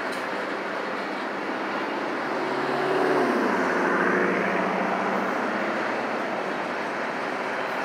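Norfolk Southern autorack freight train rolling steadily past, its wheels running on the rails. About three seconds in, a car passes close by on the road, its sound dropping in pitch as it goes by.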